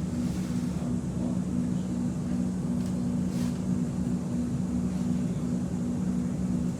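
Steady low hum of a stationary X'Trapolis 2.0 electric train's onboard equipment while it waits at a signal, with two held low tones over a rumble.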